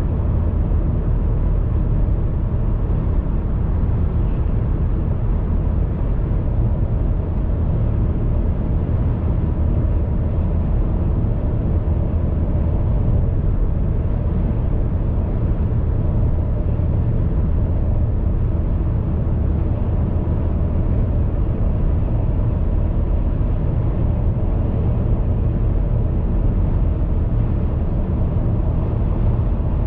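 Steady low rumble of a car being driven: road and engine noise, even throughout, with most of the sound in the bass and little hiss on top.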